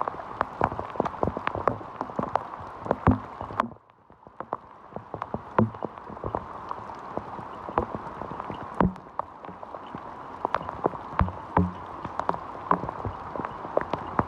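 Heavy rain: dense sharp raindrop ticks over a steady hiss, with a few duller thumps mixed in. The sound drops out briefly about four seconds in.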